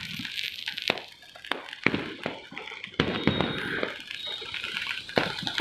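Firecrackers and fireworks bursting all around: an irregular run of sharp cracks and bangs over a steady crackling haze, with a louder burst about three seconds in.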